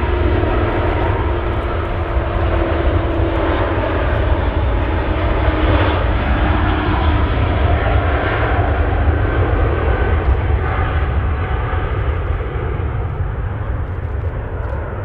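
A large aircraft passing with its engines running loud, swelling to a peak about halfway through and fading near the end.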